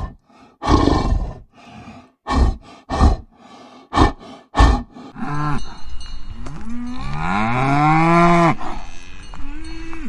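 Cow mooing: a short call, then a long call that rises in pitch, then another short call near the end. These are preceded by about six short, breathy, noisy bursts.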